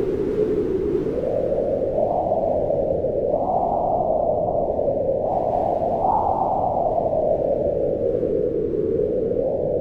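Wind blowing steadily, a low rushing noise that swells and eases in slow gusts, its pitch rising and falling every few seconds.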